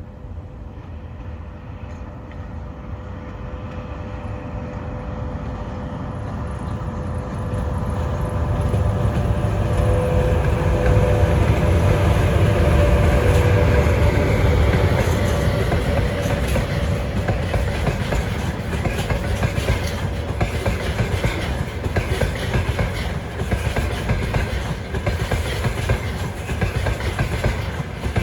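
A train approaching and passing close by: a steady whine grows louder over about ten seconds, then the wheels clatter over the rail joints in a repeating clickety-clack.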